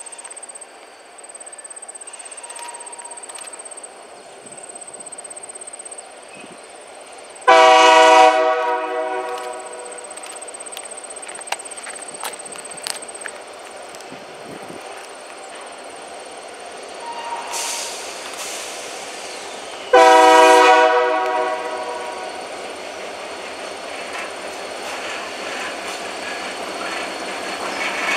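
Diesel freight locomotive approaching and sounding its chime horn in two blasts about a second long, the first about 7 seconds in and the second about 20 seconds in. The engine rumble grows louder as the locomotive draws near toward the end.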